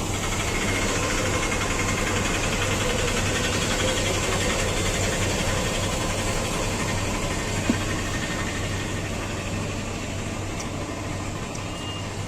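Steady motor drone with a constant low hum over general street noise, and one short click about eight seconds in.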